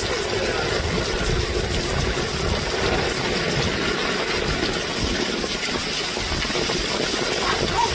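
Heavy rain pouring down steadily in a violent storm, with a low, uneven rumble underneath.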